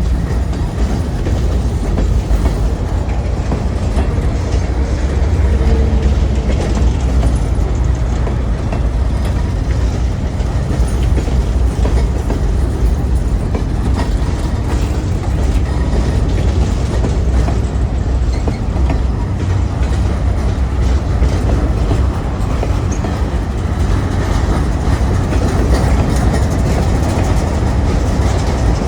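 Freight train cars rolling past on the rails, a steady low rumble with wheels clacking over the rail joints.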